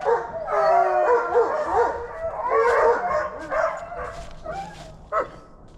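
Hunting hounds howling and yelping loudly, several cries overlapping at first, then thinning out, with one short yelp near the end.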